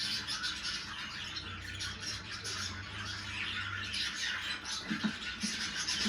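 Budgerigars chattering: a continuous stream of quick, high chirps and squawks.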